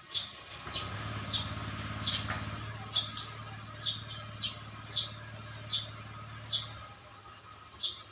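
A small bird chirping over and over, short high falling chirps about one a second, over a steady low hum.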